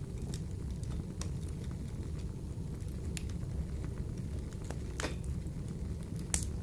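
Wood fire burning in a wood-burning stove: a steady low rumble of flames with scattered sharp crackles and pops, the loudest pops about five seconds in and near the end.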